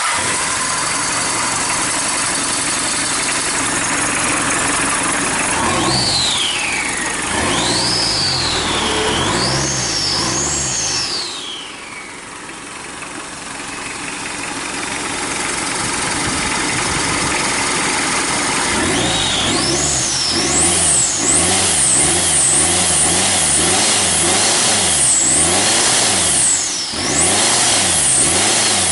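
Hyundai D4BH 2.5-litre turbo-diesel four-cylinder with a mechanical injection pump, run outside the vehicle just after starting. It runs steadily, is revved up and down several times, drops back to a lower idle about twelve seconds in, then is blipped up and down repeatedly again from about nineteen seconds on.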